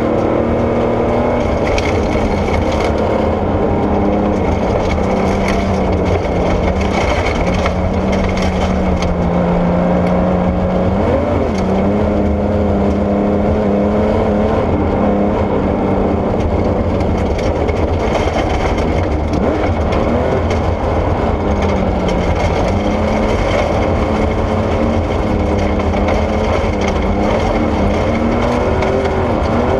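Porsche 964 rally car's air-cooled flat-six engine running hard on gravel, its pitch rising and falling repeatedly as it accelerates, shifts and slows, over a steady rumble of tyres and gravel.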